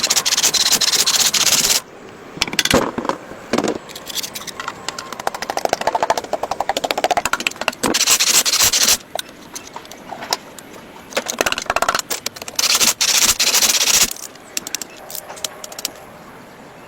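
Repeated bursts of harsh scraping, each a second or two long, with rapid clicking and shorter rasps between them, typical of abrasive work on metal.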